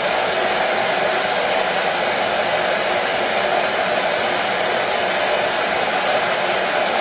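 Washing machine running, an even, unbroken rushing noise with no rhythm or change in level.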